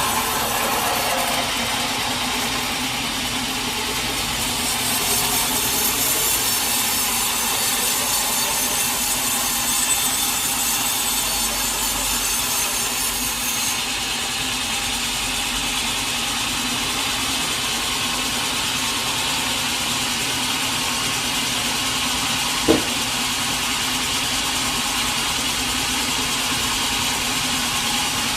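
A sawmill saw cutting through a teak log, a steady run of machine noise with a brighter hiss of cutting in the first half. There is one sharp knock about 23 seconds in.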